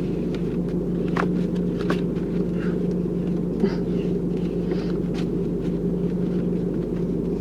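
Steady low rumble of a car's cabin with a constant hum, and a few faint clicks and rustles over it.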